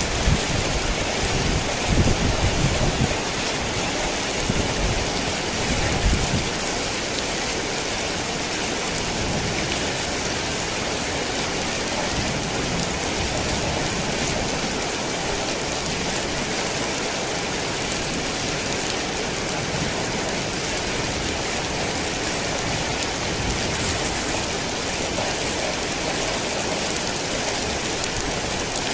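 Heavy rain falling steadily in a dense, even hiss, with a few low rumbles in the first six seconds.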